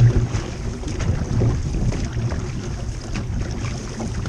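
Wind buffeting the camera microphone over the rush and splash of water around an outrigger canoe being paddled, with irregular louder pulses about once a second.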